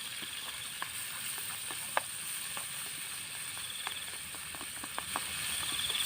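Rice-field snails and chopped banana-tree stem sizzling as they stir-fry in a pan, a steady hiss with scattered pops and crackles.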